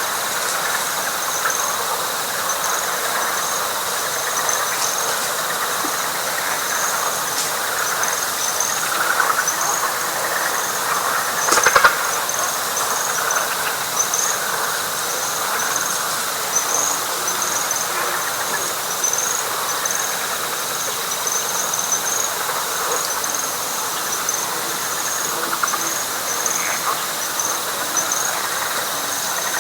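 Night chorus of frogs calling densely together, with insects adding a steady high trill and a high pulsing call repeating at an even pace. One sharp click about twelve seconds in.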